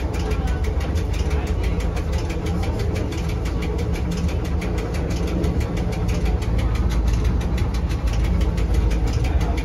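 Electric rack-railway train running along the track, heard from inside the cab: a steady low rumble with a fast, even ticking.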